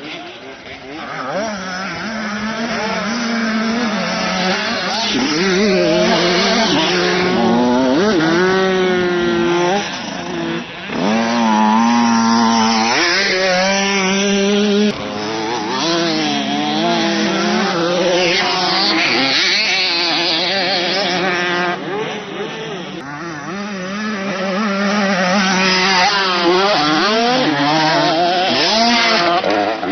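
Several motocross motorcycle engines revving as the bikes ride the track, with the pitches climbing and dropping through gear changes and throttle. The engines swell louder and fade as bikes pass, with brief dips about ten seconds in and again near the two-thirds mark.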